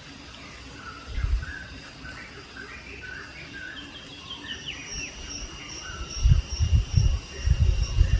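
Birds chirping in short scattered calls over steady high insect trilling, one insect pulsing rhythmically. Low thumps come about a second in and again in a cluster over the last two seconds, and they are the loudest sounds.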